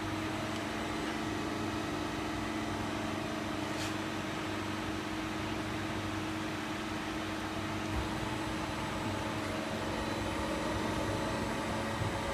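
Steady machine hum of a CNC machine and workshop, holding several constant tones, with a faint click about four seconds in and small knocks near the end.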